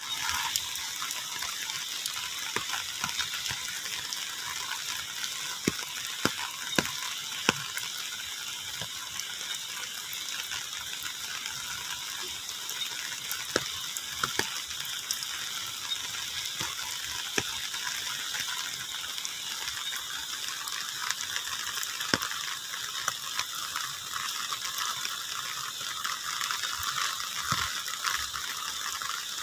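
Steady rain falling, with scattered sharp ticks of drops striking a nearby surface.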